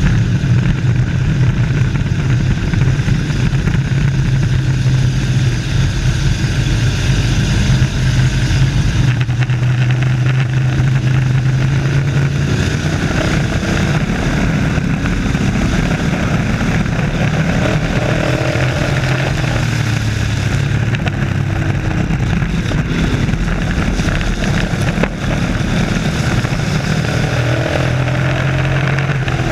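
Race trucks' engines running loud and continuous, the engine pitch shifting every few seconds as the trucks race.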